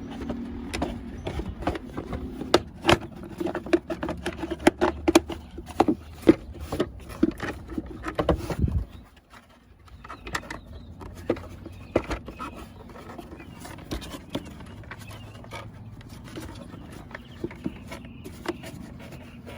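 Clicks and knocks of the lower half of a car's air filter housing being handled and fitted into place: many sharp taps over the first nine seconds, then fewer and quieter ones. A low steady hum underneath stops about nine seconds in.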